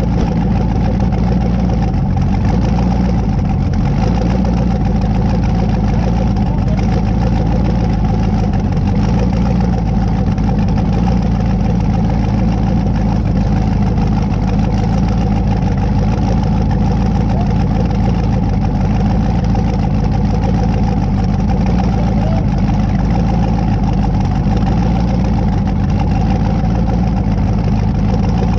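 Twin-turbo 5.3 LS V8 in a 1992 Camaro running steadily at idle. The sound is loud and even, with no revving.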